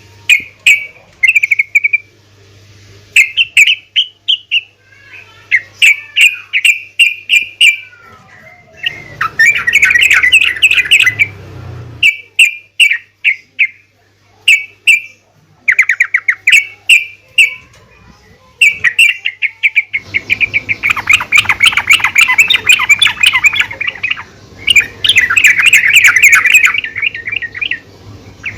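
Female yellow-vented bulbul (trucukan) calling: rapid chattering bursts of sharp notes in phrases about a second long, separated by short pauses, turning dense and almost continuous in the last third.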